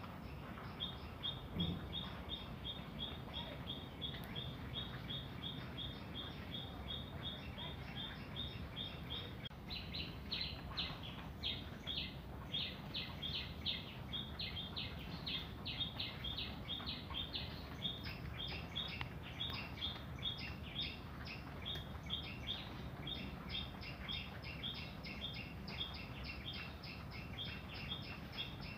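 Small birds chirping: one bird repeats a short, high chirp at about four a second. From about ten seconds in, several birds at slightly different pitches chirp over one another.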